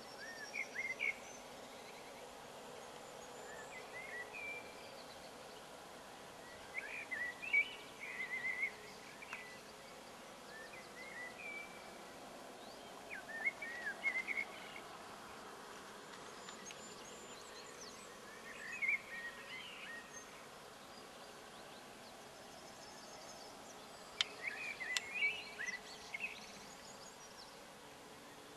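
Songbirds singing short chirping phrases every few seconds over a steady outdoor background hum, with a couple of sharp clicks near the end.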